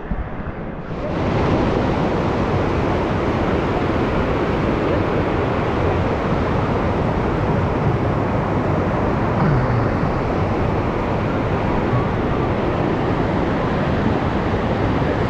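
River rapids: whitewater rushing steadily and loudly, starting abruptly about a second in.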